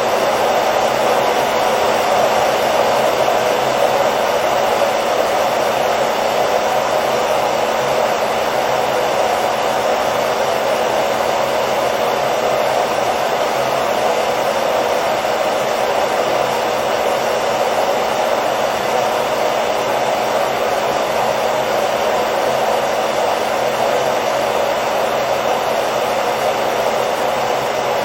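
Hair dryer running continuously: a steady, even rush of blown air with a faint motor hum, unchanging throughout.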